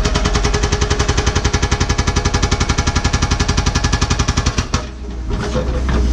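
Hydraulic rock hammer on a Cat 314E excavator pounding hard bedrock: a rapid, even rattle of blows, about ten a second. It stops near the end, leaving the excavator's engine running.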